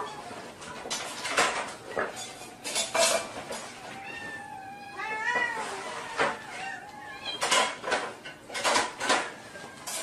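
A cat meowing, one long bending call about halfway through, mixed with a scatter of sharp clattering knocks.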